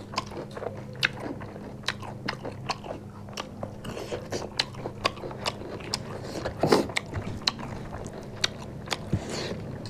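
Close-miked eating sounds: chewing and biting into rice and fried chicken, a run of short, irregular mouth clicks and smacks.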